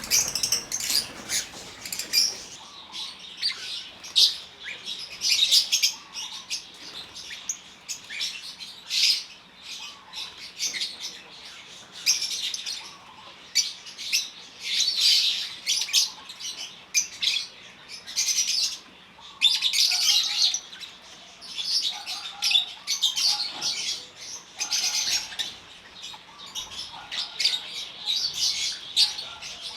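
A flock of African lovebirds calling in an aviary: dense, shrill chirping that keeps coming in short overlapping bursts.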